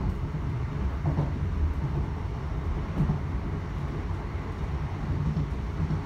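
Interior running noise of a moving Class 321 electric multiple unit: a steady low rumble of the wheels on the track, heard inside the carriage.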